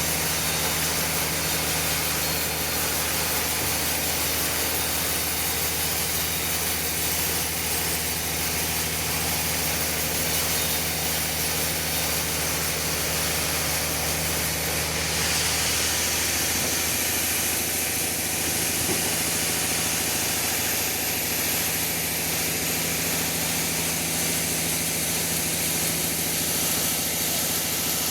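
Sawmill machinery running: a steady engine hum under a broad high hiss, which grows brighter about halfway through.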